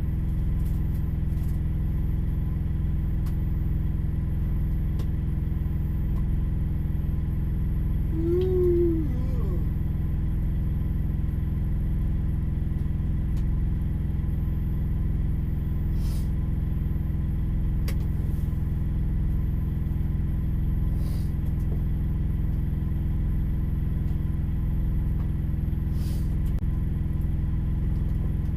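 Steady low engine rumble of an idling vehicle, heard from inside its cab. About eight seconds in, a short pitched tone rises and falls once, and a few faint clicks come later.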